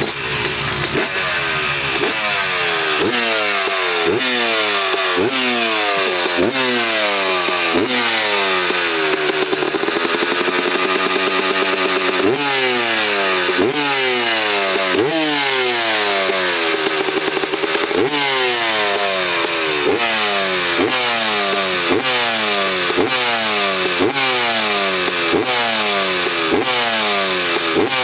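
Dirt bike engine revved over and over: each blip of the throttle jumps the pitch up, and it falls away before the next, about twice a second. Twice it is held steadier for a few seconds.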